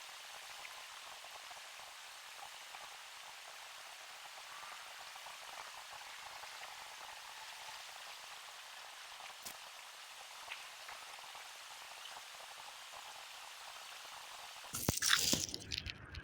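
Steady hiss of distant flowing water, faint and even, with a couple of soft ticks. A second and a half before the end, loud, irregular close rustling noise starts.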